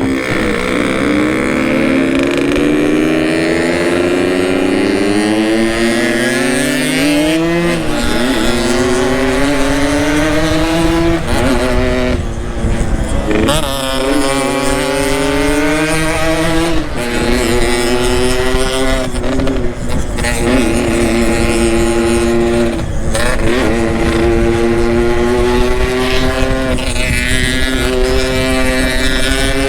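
Yamaha RX-King's two-stroke single-cylinder engine pulling hard through the gears, its pitch climbing and then dropping at each shift, several times over. It is heard from on the moving motorcycle.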